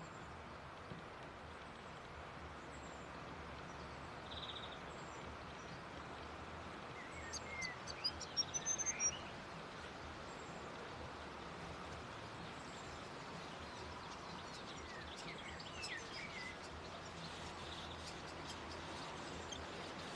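Small bird chirping: a quick run of high, thin chirps and short up-and-down notes about seven seconds in, and a shorter, softer run about fifteen seconds in, over a steady outdoor background hiss.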